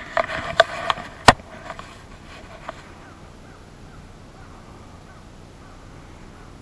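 A harsh bird call lasting under a second, mixed with several sharp clicks, the loudest just over a second in.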